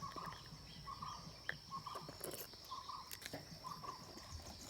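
A bird repeating a short note about once a second, over the steady high drone of insects; faint.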